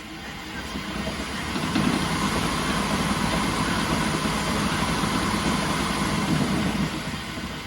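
A motor or engine running steadily, fading in over about the first two seconds and fading away near the end.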